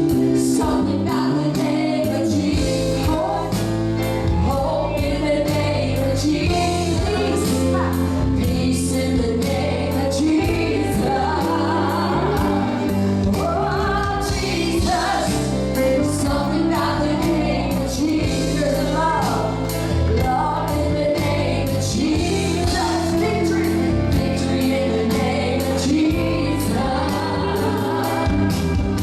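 Live gospel worship music: singers, with a choir-like blend, over a band with a steady beat.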